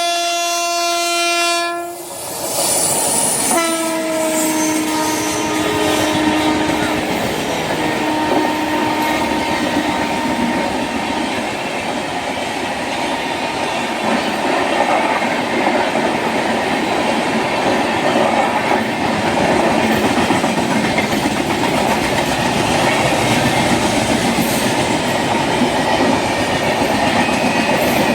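Train horn sounding for about two seconds, then a second horn blast a little later whose pitch drops as the train goes by. A high-speed express train then passes close by with a steady loud rush and clatter of wheels on the rails.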